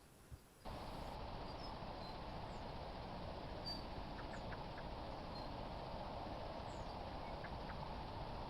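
Steady hiss of a trailcam's microphone outdoors, starting abruptly just under a second in, with a few faint, short, high bird chirps over it.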